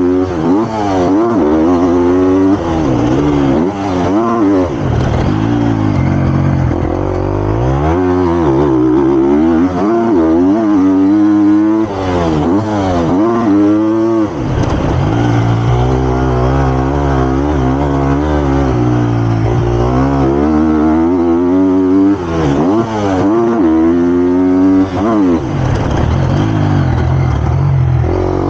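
Triumph TF250-X motocross bike's 250 cc four-stroke single-cylinder engine under hard riding, its pitch climbing and dropping again and again as the throttle is opened and closed. There is a steadier, lower engine note for a few seconds about halfway through.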